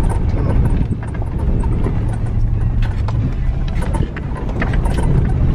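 2008 Ford F-150 FX4 pickup driving on a dirt trail: a steady low engine and tyre rumble, with scattered rattles and clicks.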